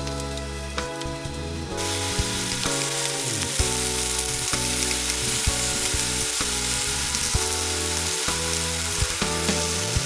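Food frying and sizzling in a hot pan, a dense hiss that starts suddenly about two seconds in, over soft background music.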